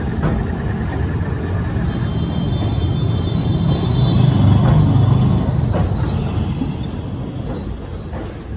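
Steady rumble and clatter of an Indian passenger train's coaches running past close on the adjacent track, heard through an open carriage door, with a faint high wheel squeal in the middle. It swells to its loudest about four seconds in, then eases as the coaches clear.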